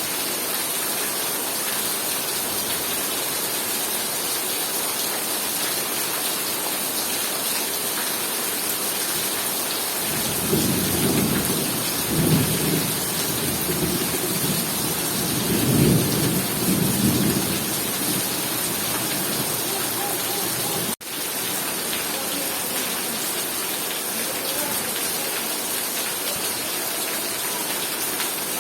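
Heavy rain pouring steadily, with a long roll of thunder rumbling from about ten seconds in for some eight seconds, swelling twice. The sound drops out for an instant about two-thirds of the way through.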